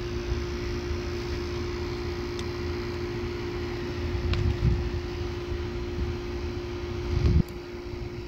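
Steady mechanical hum with one constant mid-pitched tone, a few light clicks, and low thumps about 4.5 and 7 seconds in; the hum drops in level near the end.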